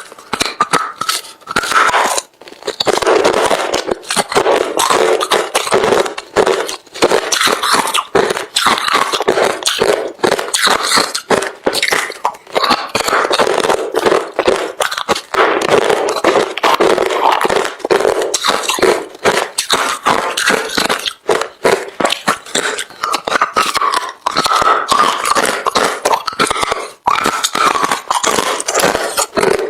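Hard refrozen crushed ice being bitten and chewed: a dense, unbroken run of crisp cracks and crunches.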